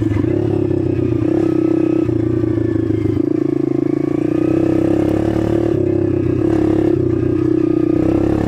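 Small dirt bike engine running steadily while being ridden, its pitch falling and rising gently with the throttle.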